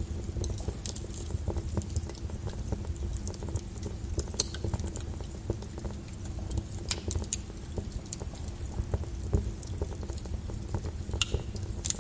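Wood fire in a fireplace crackling: irregular sharp pops and snaps from the burning logs over a steady low rumble, with a louder pop about four seconds in and another near the end.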